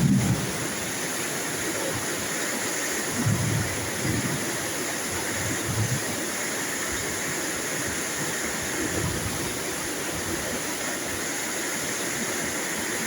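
Steady hiss of heavy rain, with a few brief low rumbles in the first half.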